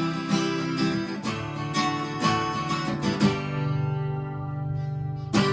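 Acoustic guitar strumming chords, ending on a final strummed chord about five seconds in that rings briefly and dies away.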